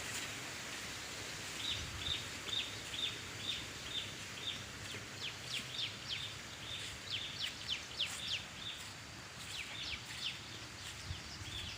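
A bird calling over and over, short high chirps about two a second with some quick downward-sweeping notes, over a steady background rush.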